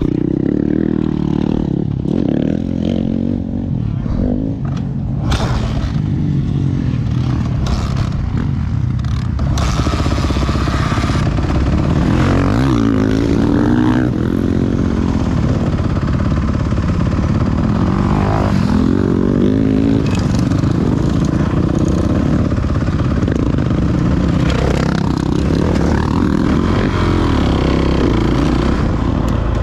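Motocross dirt bike engine being ridden hard, its pitch rising and falling again and again as the throttle is opened and closed.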